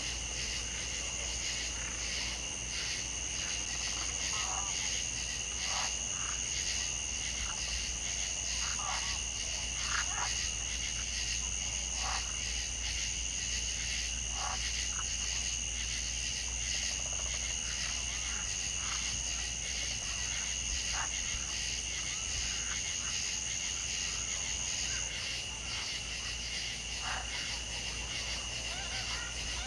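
Chorus of frogs and insects: a steady, fast-pulsing insect trill in two high bands, the higher one stopping about 25 seconds in, with short frog croaks scattered throughout.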